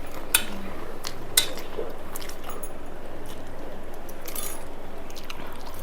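Dishes clinking while eating: two sharp clinks about a second apart near the start, then a few softer clinks and rattles about four seconds in.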